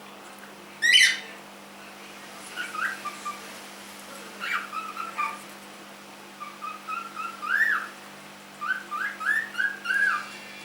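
Young cockatiel whistling its song: a loud rising call about a second in, then phrases of short whistled notes, ending in a run of quick upward-sweeping whistles.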